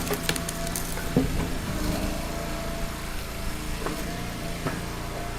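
Engine-driven hydraulic log splitter running steadily, with a few short sharp cracks and knocks of wood being split, the clearest about a second in.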